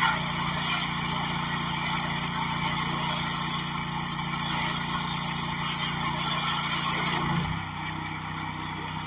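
Lawn mower engine running steadily at speed, then throttled down to a lower, quieter idle about seven seconds in.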